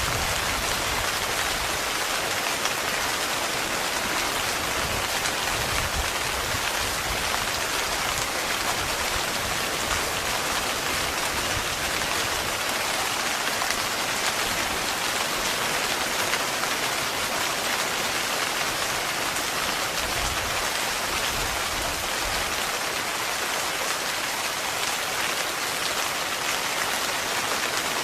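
Heavy rain falling steadily on a tent, a dense even patter with a low rumble that swells and fades underneath now and then.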